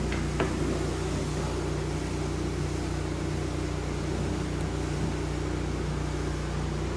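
A carpet cleaning machine's motor runs steadily with a low hum, under the even hiss of a pressure washer running in the background, with a couple of small knocks near the start.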